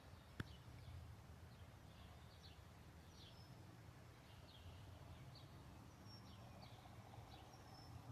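Faint birdsong: small birds giving repeated short, high chirps over a quiet low background rumble, with a single click about half a second in.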